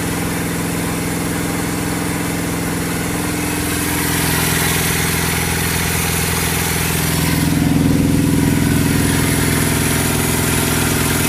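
Honda CB175 parallel-twin engine, breathing through velocity stacks and a Uni filter and out a CL exhaust, running steadily near idle. It gets a little louder about four seconds in and again a little past seven seconds.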